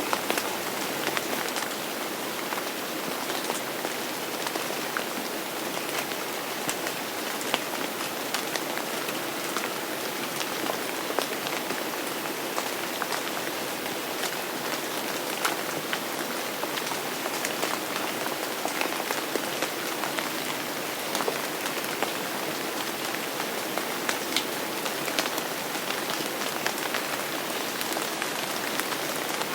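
Steady rain falling, with many sharp individual drop hits ticking through the even wash of noise.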